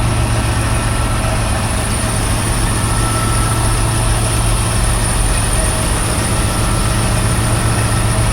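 Diesel semi truck engine idling with a steady, even low hum.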